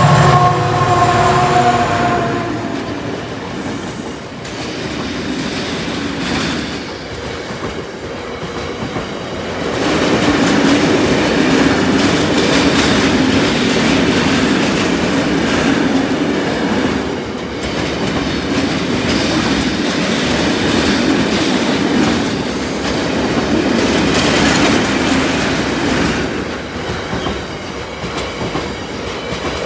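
Colas Rail Class 70 diesel locomotive's V16 engine passing close by, loudest in the first two seconds. A long train of oil tank wagons then rolls past over the crossing for the rest of the time, its wheel noise swelling again about ten seconds in.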